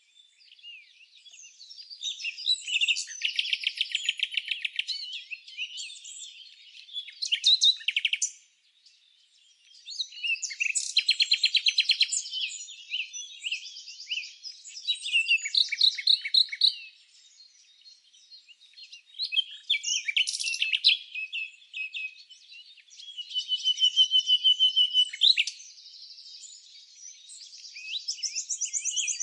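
Songbirds singing: high, rapid trills and chirps in phrases of one to three seconds, separated by short pauses.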